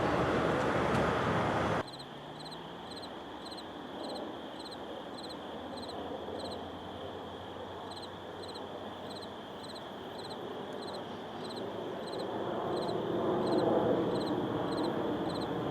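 Loud rushing train noise cuts off abruptly about two seconds in. What follows is quieter, with a faint high chirp repeating about two or three times a second. Near the end a low rumble of an approaching train swells.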